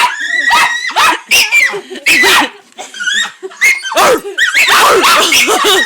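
A dog barking and yipping in rapid, excited bursts while play-fighting a large stuffed horse toy.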